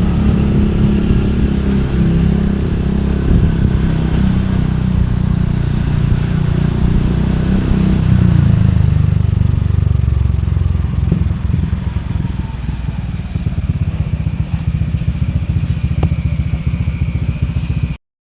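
Motorcycle engine running on the move, a dense low drone whose note shifts about halfway through. The sound cuts off suddenly near the end.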